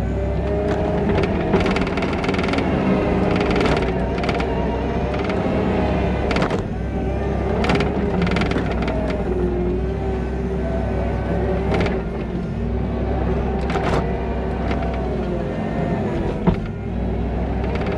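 Skid steer's diesel engine running under load, with a whining pitch that rises and falls as the machine works, and scattered clanks and knocks as the bucket pushes dirt.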